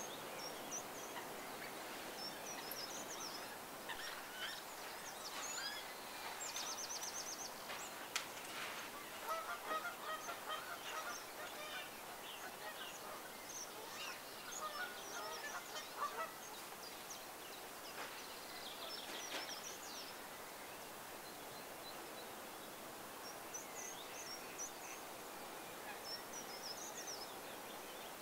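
Wild birds calling: many short, high chirps and two brief trills, with bursts of lower calls in the middle.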